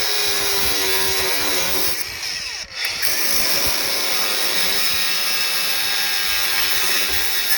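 A power saw running and cutting, with a brief dip and change in speed about two and a half seconds in.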